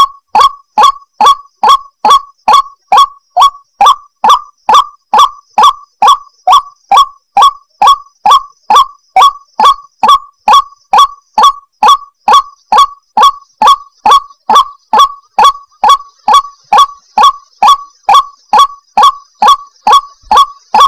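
White-breasted waterhen (ruak-ruak) calling: a loud, harsh note repeated evenly about twice a second, each note dropping in pitch at its end. It is a lure call, used to draw in wild waterhens.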